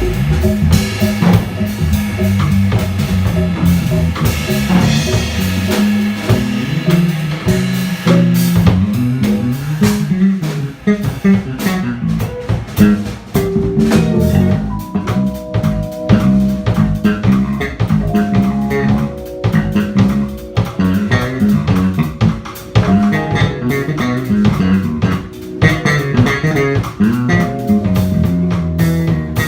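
Live jazz band playing: electric guitar, piano, upright or electric bass and drum kit, with a walking bass line under cymbal and drum strokes. Held melody notes come in about halfway through.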